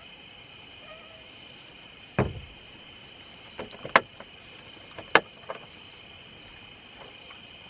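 Crickets chirring in a steady high drone. Over it come a dull thump about two seconds in and a few sharp clicks or knocks around four and five seconds in.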